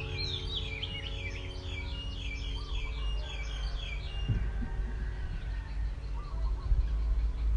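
A songbird chirping in a quick run of high, rising-and-falling notes for about the first three and a half seconds, then more faintly, over a steady low rumble.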